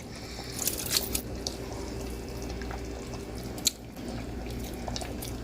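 Wet dripping and sloshing as pieces of stockfish are added to a large pot of efo riro soup, with a few light clicks.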